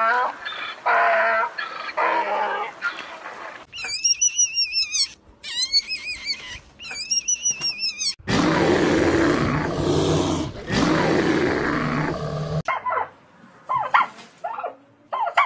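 Calls of several different animals, one after another. First comes a run of short repeated calls, then three bursts of high squealing calls, then a long, loud, rough roar starting about eight seconds in, and a few short calls near the end.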